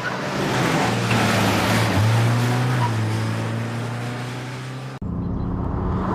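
Car engine revving hard as it drives off, its pitch stepping up about two seconds in and holding. Near the end there is a sudden cut to a different engine sound.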